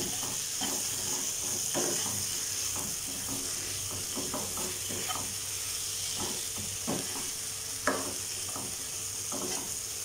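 Sliced mushrooms and onion-tomato masala sizzling in oil in a non-stick kadai, stirred with a spatula that scrapes and knocks against the pan every second or so, with one louder knock near the end.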